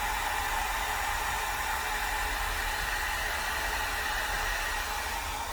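Hairdryer running steadily, blowing air over poured acrylic paint; it cuts off right at the end.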